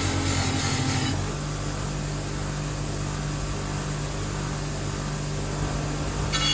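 A motor running steadily with a low hum. Its sound changes about a second in, when the higher part drops away, and again near the end, when it returns.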